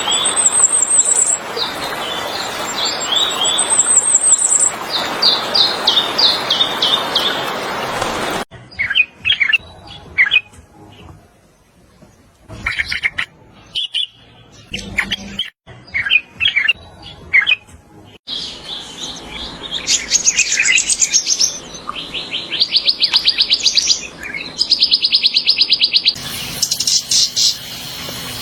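Purple-throated euphonia (fim-fim) calling and singing in several spliced recordings: short high whistled notes, some rising, then fast chattering trills.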